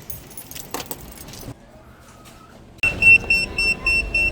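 Handling rustle and clicks, then a sudden rapid electronic beeping, one high tone pulsing about five times a second, starting near the end.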